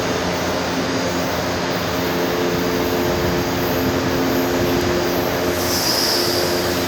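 São Paulo Metro train running in the station, a loud steady rumble with a hum of several steady tones from its motors. A brief high squeal comes near the end.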